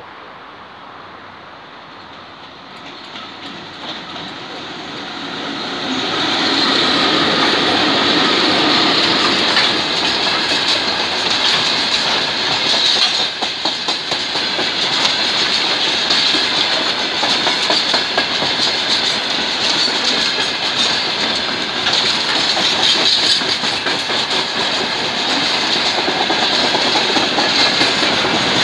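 VL11M electric locomotive hauling a freight train approaches and passes, growing louder over the first six seconds. Then a long line of freight wagons rolls by with a steady rumble and a rapid clatter of wheels over the rail joints.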